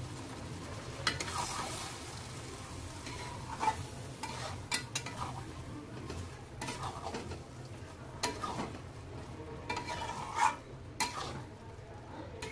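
Marinated chicken pieces frying in hot oil and masala in a steel kadai, sizzling steadily while being stirred with a metal spatula that scrapes and knocks against the pan several times.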